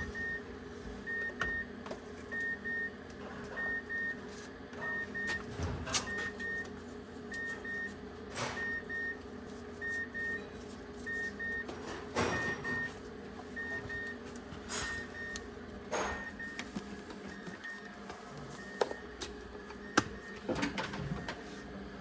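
Car warning chime sounding in pairs of short high beeps about every second and a quarter, stopping about 17 seconds in, over a steady low hum. Several clicks and knocks come in between.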